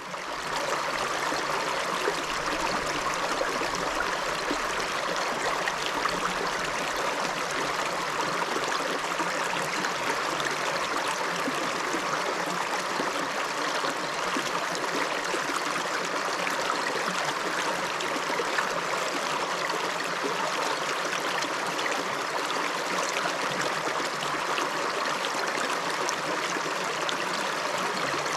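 Shallow river flowing over stones, a steady rushing and babbling that fades in from silence at the very start.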